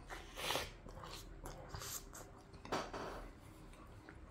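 Faint chewing of a bite of pizza, with a couple of soft swells of mouth noise.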